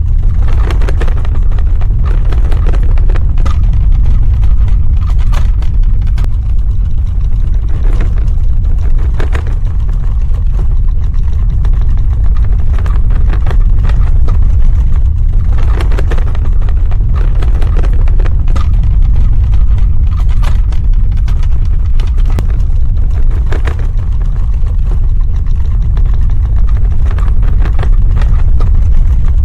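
Earthquake sound effect: a loud, steady deep rumble with scattered crackles and rattles over it.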